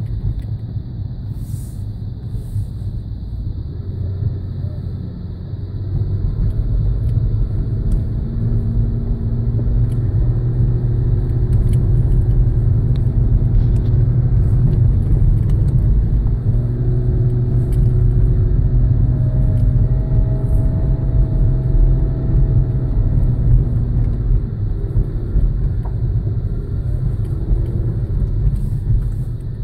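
Car engine and road rumble inside the cabin as the car climbs a very steep street, the engine working under load. The sound steps up in loudness about six seconds in and stays there until near the end.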